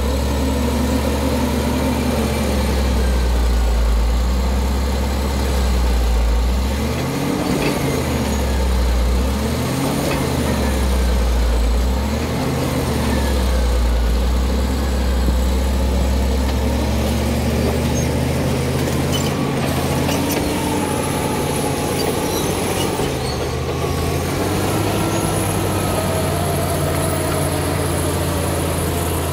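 Caterpillar D7 bulldozer's diesel engine running under load, its note rising and falling four times in quick succession about a third of the way in, then running steadier, with a faint high whine drifting up and down above it.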